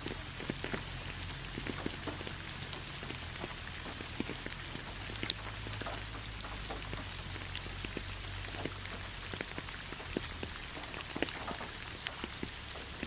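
Steady rain falling, with many individual drops tapping sharply on a surface.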